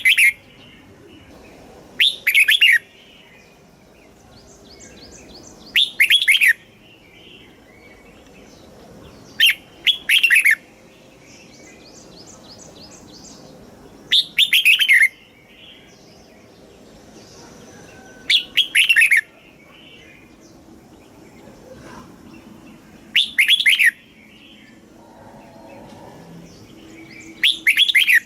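Red-whiskered bulbul singing short, loud phrases of a few quick notes, repeated about every four seconds, with fainter chirps in between.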